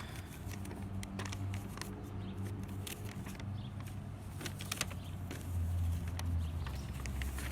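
Room tone: a steady low hum with a few faint, scattered clicks, and no speech.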